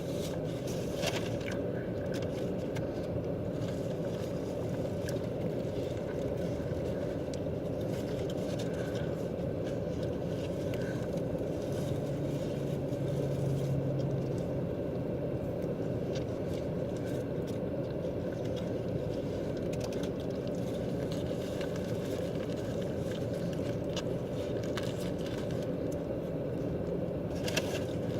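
Steady low rumble inside a car's cabin with the engine running, with faint small clicks and crackles over it.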